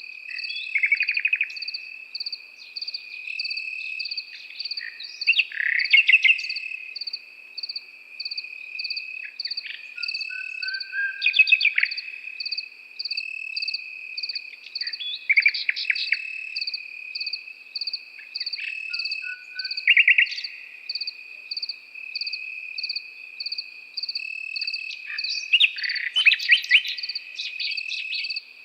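A nightingale singing short phrases of rapid repeated notes and trills every few seconds, over a steady high cricket trill and a fast, even cricket chirping.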